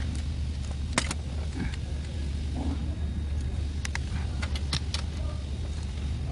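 Engine of a 2021 Tahoe running with a steady low hum, with scattered sharp ticks at uneven spacing over it: the ticking noise that goes with its misfire code.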